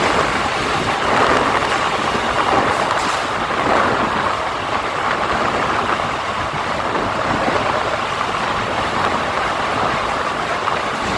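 A moving passenger train's steady running noise, heard from on board: wheels and carriages rumbling and rattling along the track.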